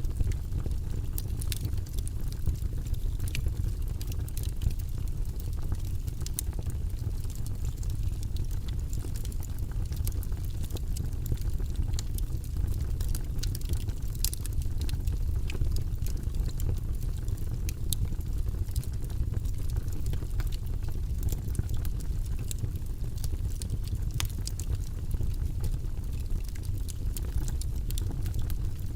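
Wood logs burning in a fireplace: frequent irregular crackles and sharp pops over a steady low rumble of the flames.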